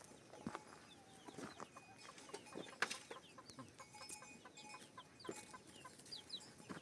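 Chickens clucking faintly, with scattered small clicks and knocks.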